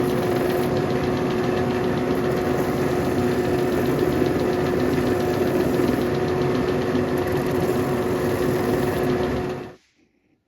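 Electric motor of a shoe-repair workshop machine running steadily with a constant hum and a broad grinding noise, then switched off and cutting out suddenly near the end.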